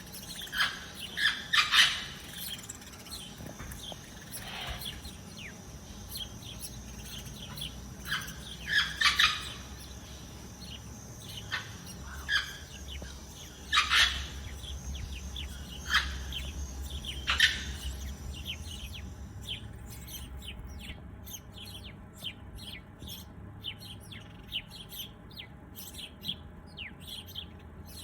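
Birds chirping: short, sharp calls come at irregular intervals. About two-thirds of the way through, the background hiss drops away suddenly and a quicker run of thin, high chirps follows.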